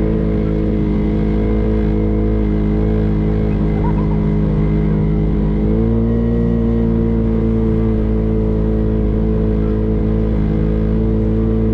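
Motorboat engine running steadily under way, its pitch stepping up slightly about halfway through.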